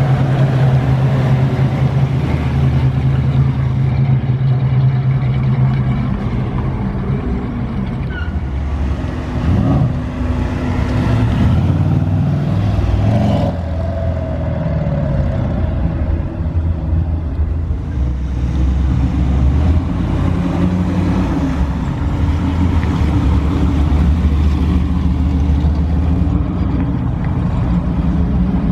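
Several show cars driving slowly past one after another, their engines running low and changing note as each car goes by.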